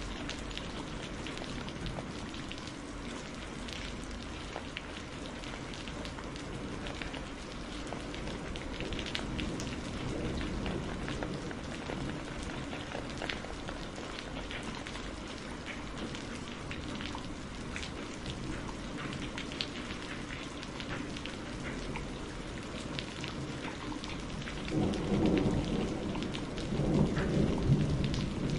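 Steady rain mixed with the scattered crackle of a wood fire in a fireplace. A low rumble of thunder builds near the end and is the loudest thing heard.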